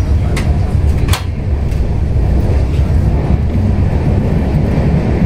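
Passenger train running at speed, heard from inside the coach: a steady low rumble of wheels on rails, with two sharp clicks within the first second or so.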